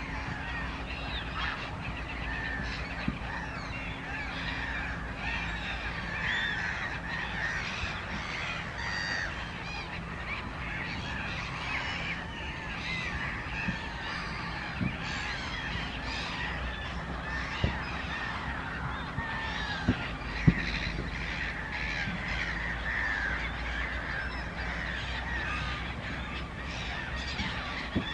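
A large flock of waterbirds calling all at once, many short overlapping honking calls forming a steady din. A few sharp knocks stand out here and there.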